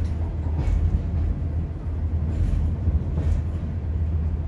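Inside a British Rail Class 142 Pacer diesel railbus under way: steady low rumble of its underfloor diesel engine and two-axle running gear on the rails, with a few faint knocks from the wheels.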